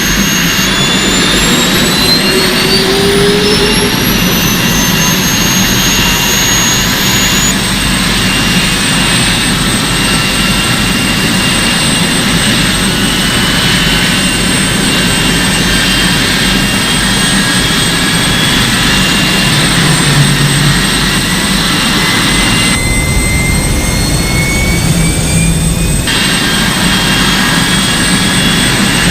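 Loud, steady motor whine with several tones that rise slowly in pitch over the first seven seconds and then hold steady; the sound changes abruptly a few times, as at edits.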